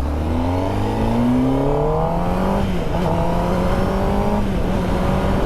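Kawasaki ZX10R's inline-four engine pulling under throttle, its pitch rising steadily for about two and a half seconds, dipping briefly at a gear change, then holding nearly level, with wind noise throughout.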